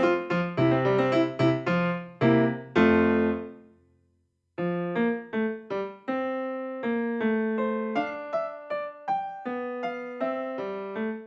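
Background piano music. One piece ends on a chord that fades out about three and a half seconds in, there is a brief silence, and then a gentler piano piece begins with single notes over a low accompaniment.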